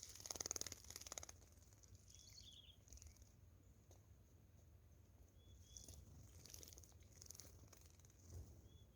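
Saffron finch bathing in shallow water: quick flurries of wing-splashing, the longest in the first second or so, then shorter flurries later on. A few brief high chirps come between them.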